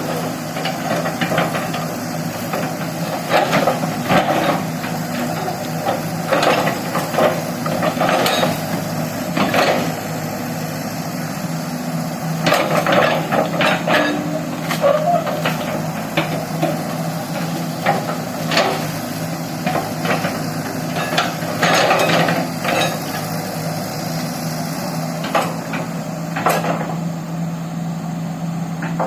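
Excavator's diesel engine running steadily, with irregular knocks and clanks over it, some in quick clusters.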